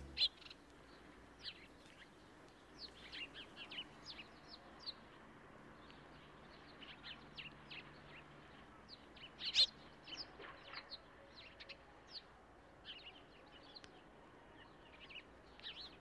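Small garden birds chirping in short, scattered high notes, one louder chirp about halfway through.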